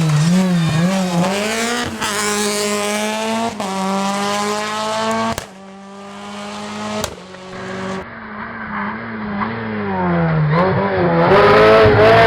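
Hillclimb race car engines at high revs, rising and falling in pitch through gear changes and throttle lifts, with a sudden cut about five seconds in. Near the end another car comes in louder, its revs climbing as it accelerates.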